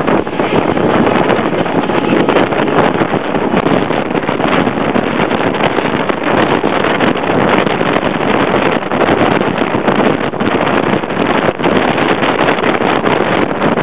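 A passenger train running at speed: a loud, steady rush of wheel and rail noise with frequent irregular knocks, mixed with wind on the microphone at the carriage window.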